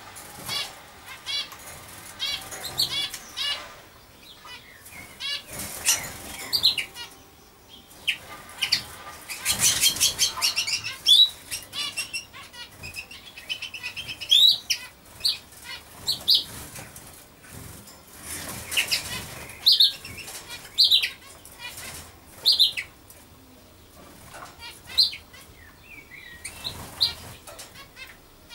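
Small birds chirping: bursts of short, high chirps and quick trills come and go throughout, thickest about ten seconds in.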